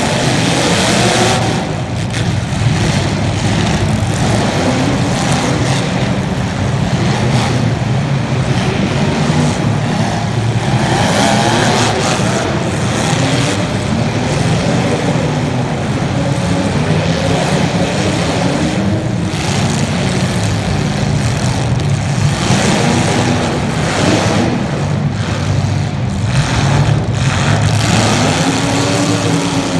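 Engines of several race cars running hard during a race, repeatedly revving up and easing off as they pass and corner.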